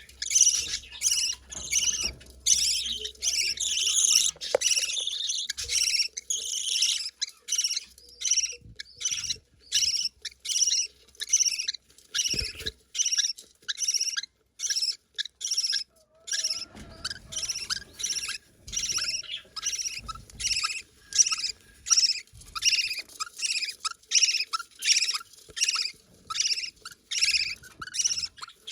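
Budgerigar chicks begging for food, a long run of short high-pitched rasping calls, about two a second, with little pause.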